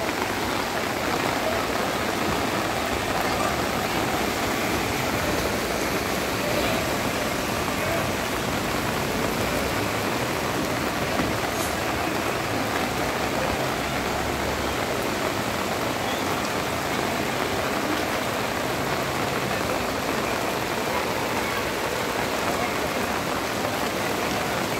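Steady rainfall, a constant even hiss of rain falling on surfaces.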